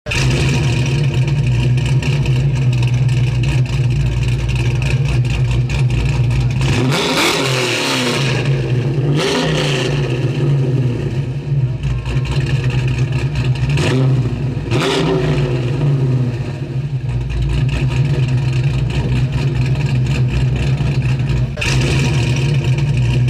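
Car engine running with a steady low hum, revving up and down in several swooping rises and falls of pitch through the middle.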